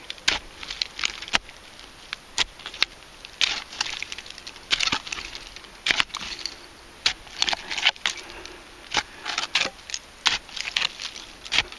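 A hand digging tool scraping and striking into a dump bank of dirt and debris, giving an irregular run of short crunching scrapes and clicks.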